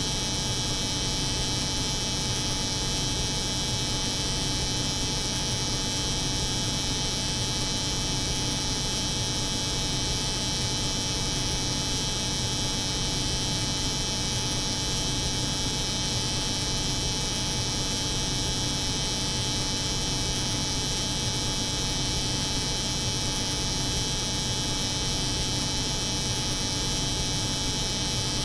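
A hair clipper's electric buzz layered with the hum of a cold room's refrigeration, holding steady without any change.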